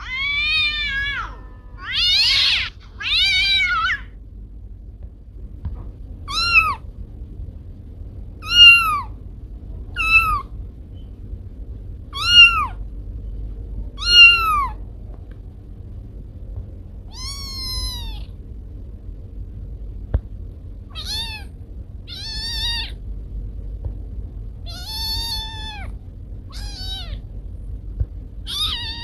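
Domestic cat meowing over and over, about fourteen short meows one to three seconds apart, each rising and then falling in pitch, over a faint low hum.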